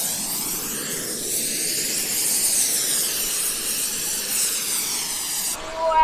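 Small turbofan-powered model jet flying past, a steady high-pitched jet hiss whose tone sweeps as it passes. It cuts off abruptly near the end, and a voice starts.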